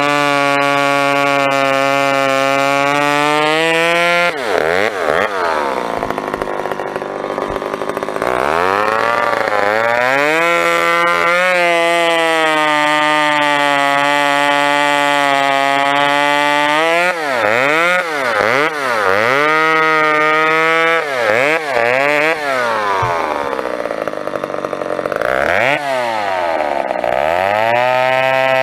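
McCulloch 10-10 two-stroke chainsaw bucking firewood. It holds a steady high-rev note in long stretches, and its pitch falls and climbs back between cuts as the throttle is let off and opened again. In the later part it is revved in a quick run of short blips.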